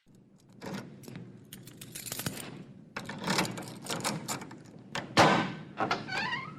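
Keys rattling and turning in a door lock, a series of metallic clicks and scrapes with a sharp clack about five seconds in, then a short rising squeak near the end as the door is opened.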